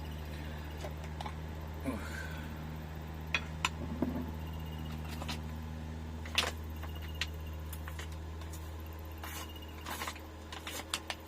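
Scattered clicks, knocks and rustles of hands handling food packaging and a sealed chili sauce jar, over a steady low hum.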